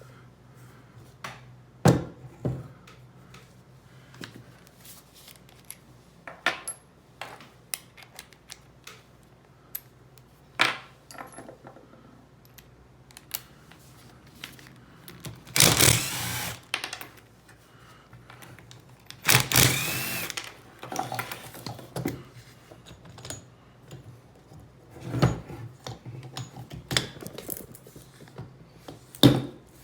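Metal clinking and knocking of tools and parts being handled, with two short runs of a power tool, each lasting about a second and a half, around the middle.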